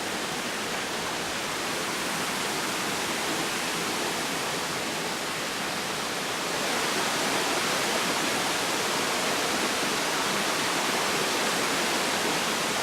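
Rushing water of a rainforest stream or waterfall, a steady even hiss that gets a little louder about six and a half seconds in.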